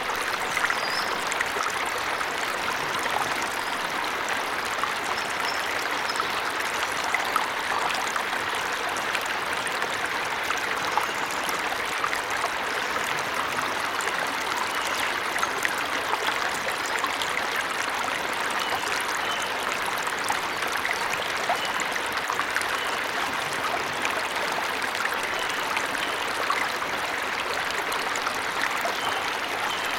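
Forest waterfall: a steady rush of falling, splashing water with no break or change.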